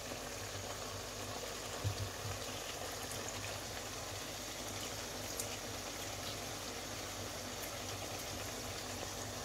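Boneless chicken pieces in oil sizzling gently in a wok, a steady hiss over a low hum, with one small knock about two seconds in.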